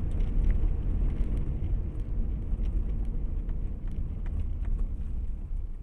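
Car driving: a steady low rumble of engine and road noise with faint scattered ticks.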